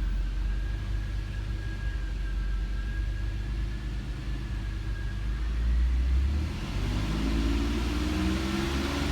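1988 Chevrolet Beretta GT's 2.8-litre V6 engine running steadily at idle, then revved, its pitch climbing steadily over the last few seconds.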